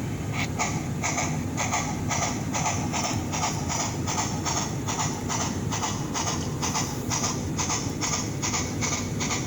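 The sound decoder of a Bachmann Spectrum HO-scale EM1 model steam locomotive playing a light double chuff through its small on-board speaker as the model runs forward. The chuffs start about half a second in and come in even pairs, about four a second, over a steady low rumble.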